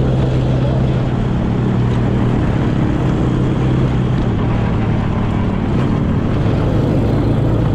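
Quad bike (ATV) engine running steadily under way, with an even, unbroken drone.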